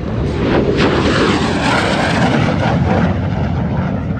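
MiG-17's Klimov VK-1 turbojet passing overhead during an airshow pass. The jet noise swells to a peak about a second or two in, then eases off near the end.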